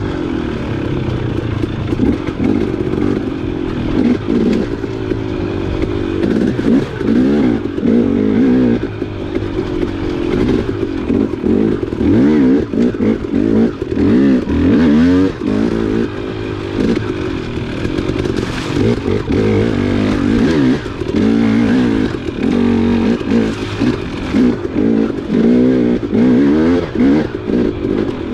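Dirt bike engine ridden along a trail, revving up and down constantly as the throttle is opened and closed, its pitch rising and falling every second or two.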